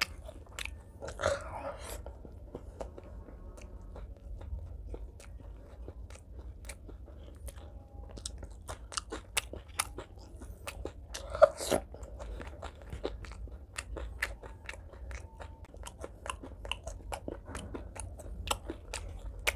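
Close-miked mukbang chewing of fried fish curry and rice: a steady run of small wet mouth clicks, with a louder bite about a second in and another a little past the middle.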